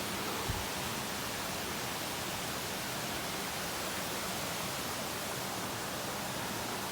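Waterfall, a steady, even rush of falling water. A brief low thump about half a second in.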